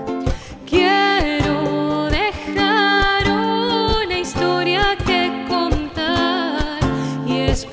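Woman singing a long, wavering melodic line over acoustic guitar and hand percussion, with the percussion striking throughout.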